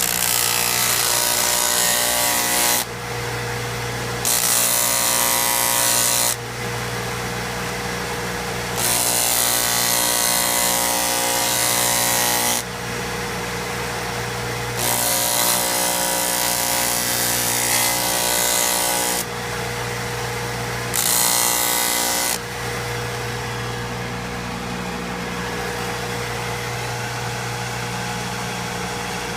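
High-speed sander motor running steadily while a thunderegg is pressed against the abrasive five times, each contact giving a loud grinding hiss for a few seconds. After the last contact, about 22 seconds in, the motor runs on alone.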